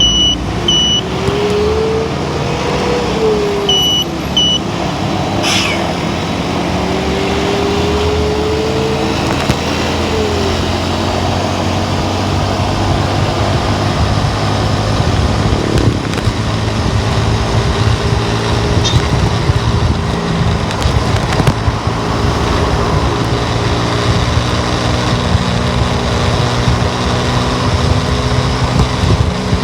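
Car driving on the road, with steady engine and road noise; the engine pitch rises and falls several times in the first ten seconds, then holds steadier. Short high double beeps sound near the start and again about four seconds in.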